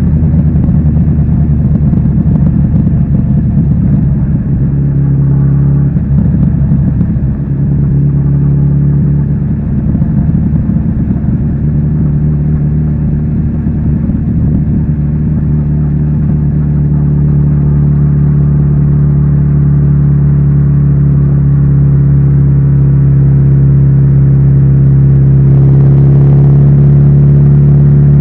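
Kawasaki Z900RS inline-four engine running through its stock exhaust with a steady note. Its pitch wavers a few seconds in, then holds while the sound grows slightly louder toward the end.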